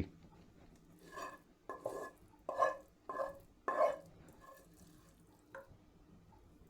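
A utensil stirring and scraping in a dish: about five separate strokes of roughly half a second each, then a couple of faint ticks.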